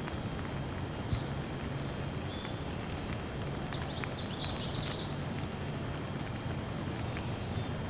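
Steady rain noise with a bird chirping over it, several short calls and then a rapid twittering burst about four to five seconds in.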